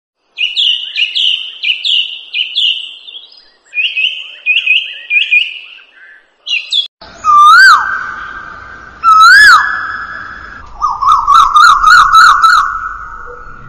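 Birds chirping and calling. First comes a run of quick, high, repeated chirps. About seven seconds in there are two loud whistled calls that swoop up and then down, each trailing into a held note. Near the end comes a fast warbling trill.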